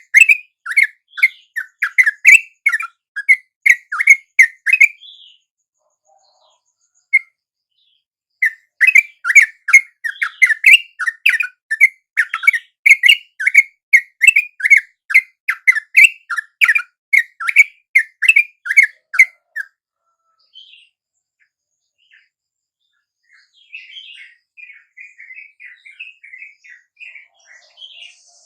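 Yellow-vented bulbul (trucuk) song: a run of quick repeated chirping notes that stops about five seconds in, returns from about nine seconds to about twenty, and gives way to fainter chatter near the end.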